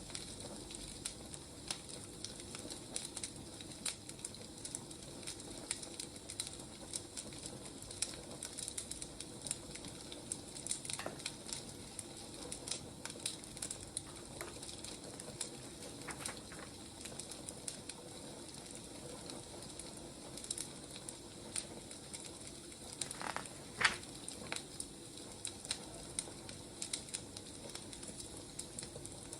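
Wood fire crackling steadily, a haze of burning with many small irregular pops and a louder snap late on.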